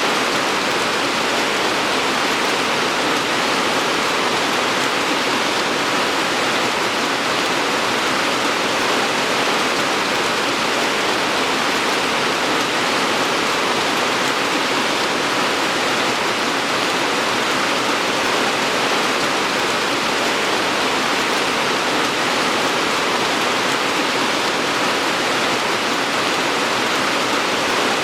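Steady, even rain with no distinct drops or thunder standing out.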